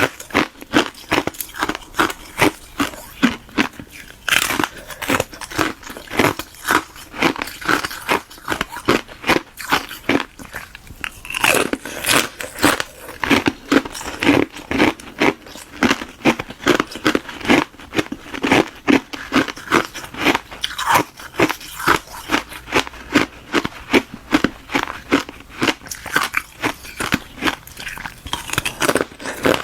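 Close-miked crunching and chewing of hard ice: a hollow balloon-frozen ice shell with frozen milk tea inside, bitten and chewed in a quick, continuous run of crisp crunches, several a second.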